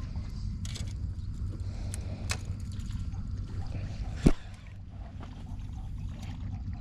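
Low steady rumble with light water sloshing around a small boat, a few faint clicks, and one sharp knock about four seconds in.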